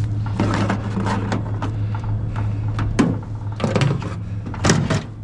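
Metal knocking and scraping as a stubborn part is worked loose from a piece of scrap, with sharp knocks about three seconds in and again near the end, over a steady low hum.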